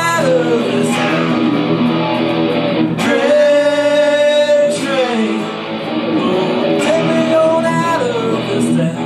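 Guitar being played with a voice singing over it, one note held for over a second about three seconds in.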